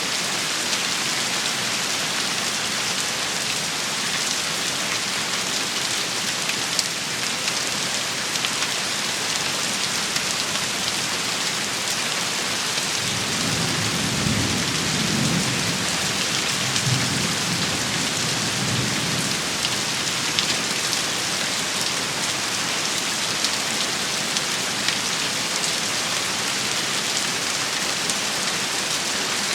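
Steady rain shower falling, with a low rumble of thunder about halfway through that swells twice over several seconds.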